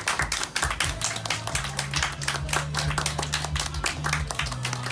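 A small audience clapping, many claps a second, over a steady low hum.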